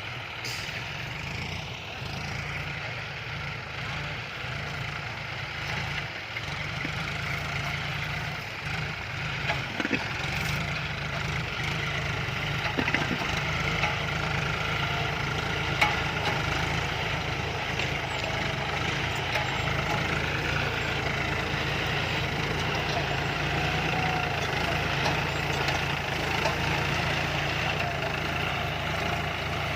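John Deere farm tractor's diesel engine running steadily under load while pulling a six-disc plow, growing slightly louder, with a few short knocks in the middle.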